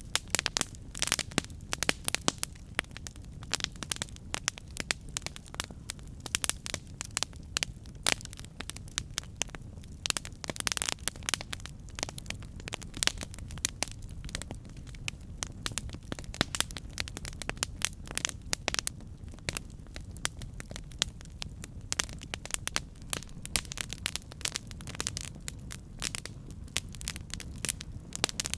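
Campfire burning, with many irregular sharp crackles and pops over a steady low rumble of the flames.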